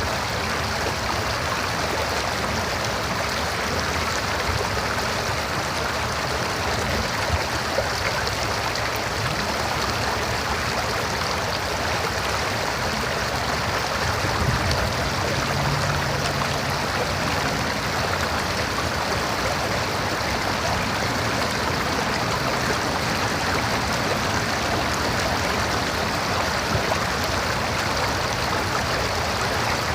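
River water rushing and gurgling steadily over rocks, a continuous broad rush with a few slightly louder splashes.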